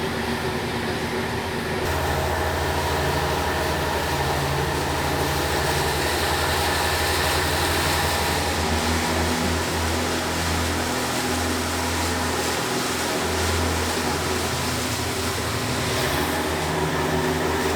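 Tourist boat's engine running steadily, a low, even hum.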